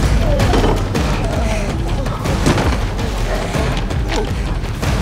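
Action-film score with repeated booms and crashes. A loud, dense mix of music and impact noise, set off just before by an explosion.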